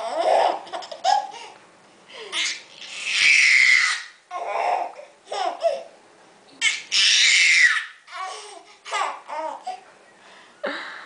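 Baby laughing and babbling in repeated short bursts, the loudest and longest about three and seven seconds in.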